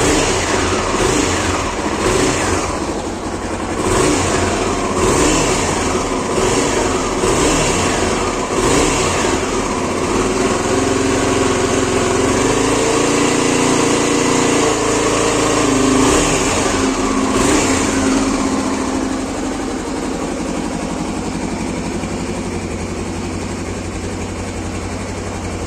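Honda AX-1's 249cc liquid-cooled DOHC single-cylinder engine being revved: a run of quick throttle blips, then revs held higher for several seconds in the middle, before it drops back to a steady idle.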